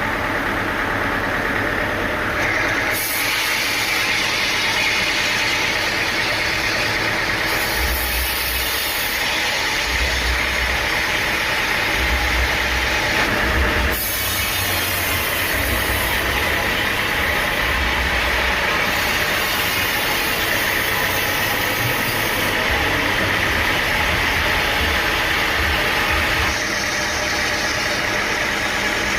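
Sawmill machinery running steadily under load, its sound changing abruptly every few seconds.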